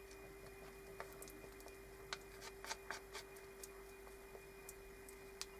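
Faint scattered small clicks and light taps of hands handling glue and plastic coving strips, a few sharper ones near the middle, over a steady faint electrical hum.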